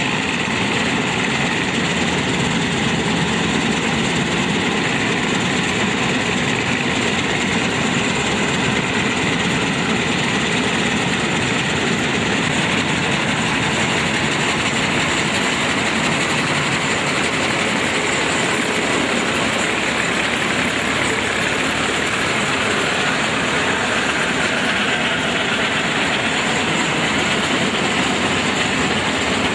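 Combine harvester running steadily: a continuous engine and machinery noise that holds at one level with no breaks or changes in pitch.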